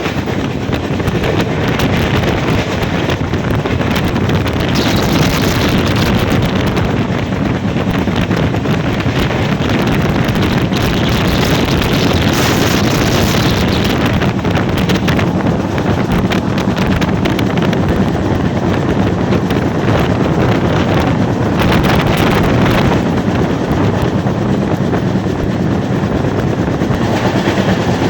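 Train running at speed: a steady, loud rush and rumble, with wind buffeting the microphone.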